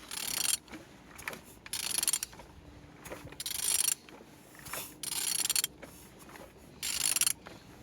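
Ratchet wrench turning the crankshaft of a BMW N52B25 inline-six engine by hand: five spells of clicking about a second and a half apart as the engine is rotated. It turns over freely, which the seller calls running good.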